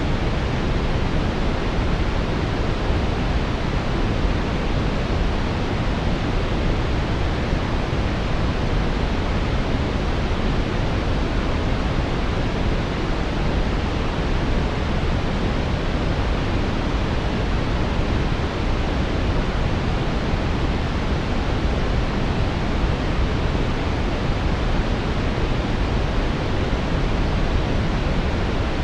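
Steady synthetic brown noise: a deep, even hiss-like rumble, strongest in the bass and fading toward the treble, unchanging throughout.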